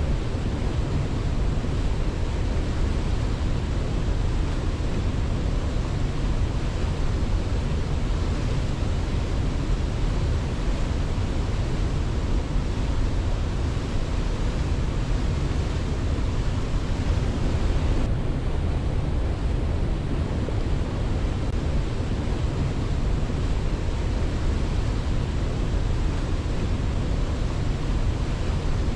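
Waterfall: an unbroken, steady rush of falling water, heaviest in its deep rumble, with no birdsong over it.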